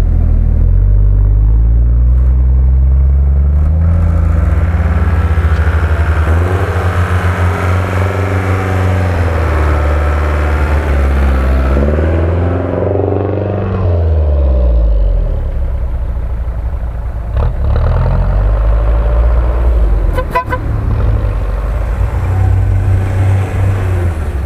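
Engines of off-road 4x4s driving slowly past one after another through snow. The pitch rises and falls as the drivers rev and ease off.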